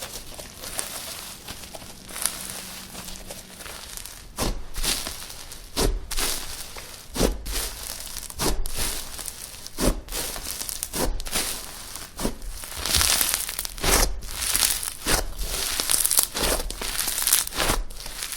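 Slime being squeezed and poked by hand, giving irregular crackling pops, a few a second, that come thicker in the second half.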